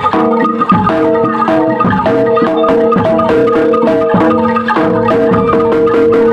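Javanese gamelan playing loudly: struck metal keyed instruments ring a fast repeating melody of short notes over percussion strokes.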